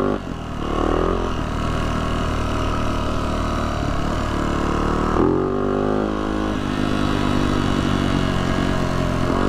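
Yamaha YZ450F dirt bike's single-cylinder four-stroke engine running under way on a trail. It revs up briefly about a second in and again, more sharply, about five seconds in.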